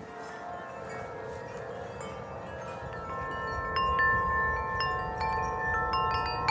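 Tuned metal wind chimes ringing in the wind, tubes struck one after another so that their tones overlap. The strikes grow busier and louder about halfway through, over a low rumble of wind.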